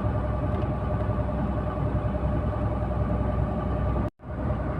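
KamAZ 4308 truck running down the road, heard from inside the cab: a steady engine and road rumble with a constant whine over it. The sound drops out for an instant just after four seconds in.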